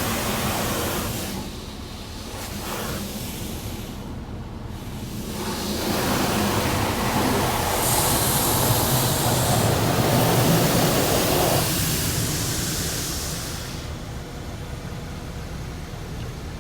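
Automatic car wash heard from inside the car: water spray hissing and drumming against the body, swelling in waves and loudest through the middle, then easing off.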